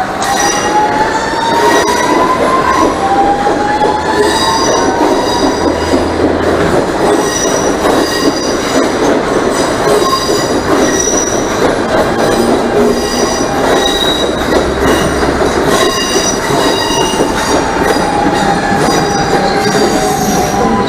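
CNR 3000-series electric multiple unit pulling out: its traction motor whine climbs in pitch in several steps as it accelerates, over a steady rumble of the cars rolling past, with the wheels squealing in short high tones again and again.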